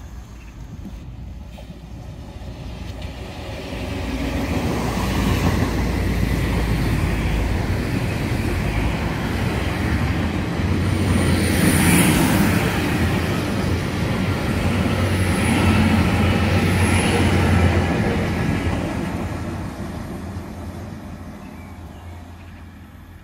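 GWR multiple-unit passenger train running past along the platform, its rumble building, holding for several seconds and then fading away as it goes. Brief high wheel squeals come twice near the middle.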